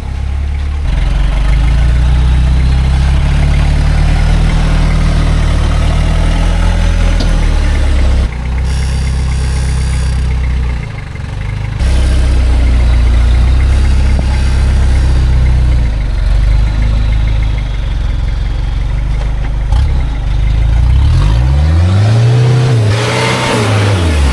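LN106 Hilux's 3.0 turbo diesel working hard under load while crawling up a tall rock ledge, engine held at steady revs, then revved up and down twice near the end.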